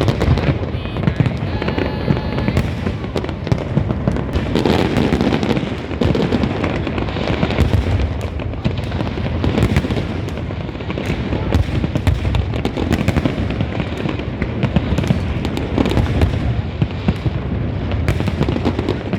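A continuous barrage of New Year fireworks: dense, overlapping bangs and crackling with no break.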